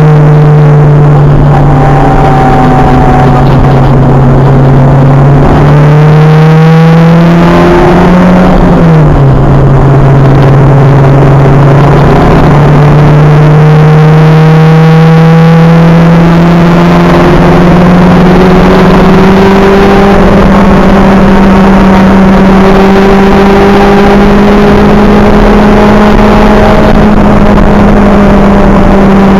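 Acura Integra race car's engine pulling hard, heard from on board, loud throughout. The pitch climbs, drops sharply about nine seconds in at a gear change or lift, then rises slowly and steadily for the rest of the stretch.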